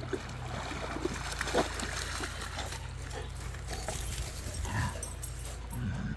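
A dog's sounds amid splashing water, over a steady low hum.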